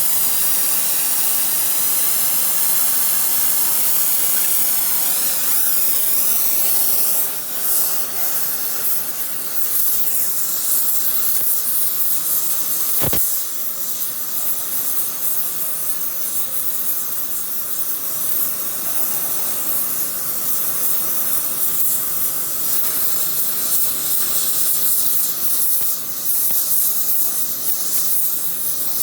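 Welding arc hissing steadily, with a single sharp click about halfway through.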